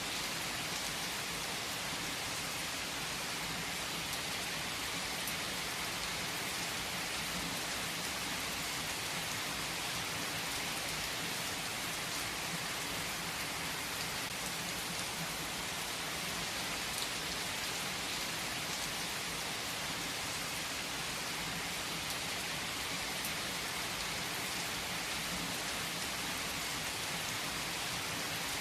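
Steady rain falling on surfaces, an even hiss with no distinct thunderclap.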